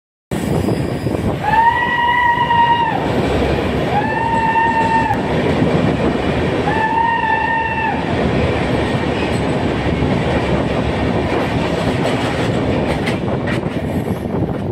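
Train running with a steady rumble, its horn sounding three separate blasts of about a second each, one steady pitch, in the first eight seconds.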